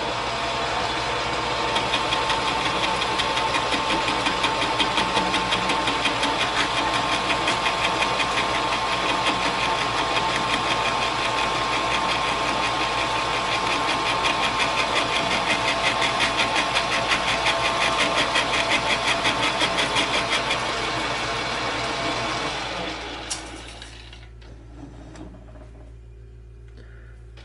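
Metal lathe running a light turning cut on the outside diameter of a part: a steady running sound with a fast, regular pulse. The machine is switched off about 23 seconds in and winds down, leaving a faint hum.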